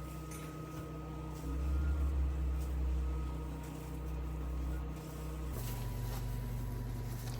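Steady low refrigerator hum with a few faint clicks. The hum's pitch changes abruptly about five and a half seconds in.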